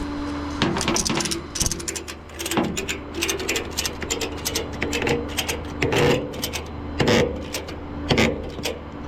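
A ratchet tie-down being cranked on a tow truck, giving a run of sharp, irregular metallic clicks and rattles. A steady low engine hum runs underneath.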